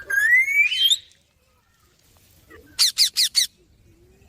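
Pet rose-ringed parakeets calling: one long rising whistle through the first second, then a quick run of four harsh screeches about three seconds in.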